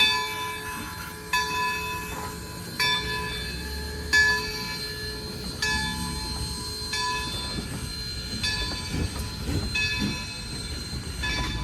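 Train rolling past, its wheels striking rail joints about every second and a half, each strike followed by a ringing, squealing tone from the wheels over a low rumble.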